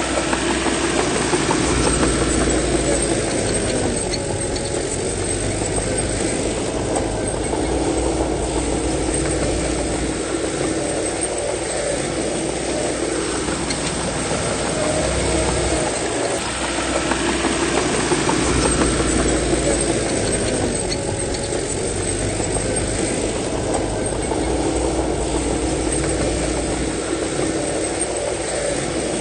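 Bulldozer's heavy diesel engine running continuously, its pitch and load rising and easing off in a repeating cycle about every eight seconds as it pushes soil.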